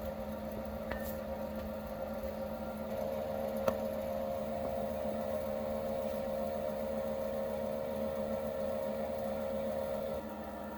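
Small electric motor running with a steady electrical hum. A higher tone in the hum grows stronger about three seconds in and falls away shortly before the end, with a faint click partway through.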